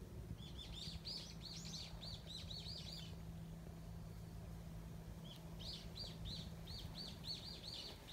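A small bird calling in two runs of quick, arched chirps, about three or four a second, with a pause of about two seconds between the runs.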